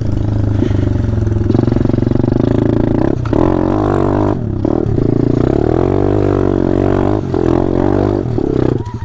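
Small single-cylinder four-stroke engine of a pit bike or minibike running under throttle while riding, with brief dips in revs several times as the throttle is eased and opened again.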